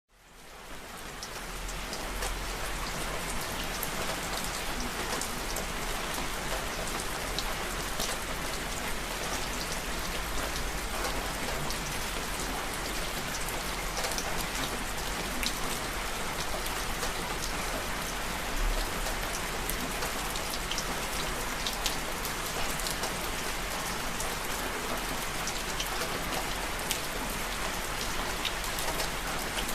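Steady rain falling, with many individual drops ticking sharply on a hard surface. It fades in over the first second or so, then holds an even level.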